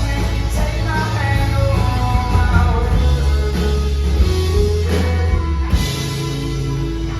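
Rock band playing live, with bass, drums and guitar carrying moving melodic lines; the texture shifts about six seconds in.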